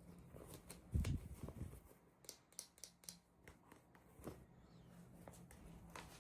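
Hands handling small plastic toy packaging: scattered light clicks and rustles, with a soft thump about a second in.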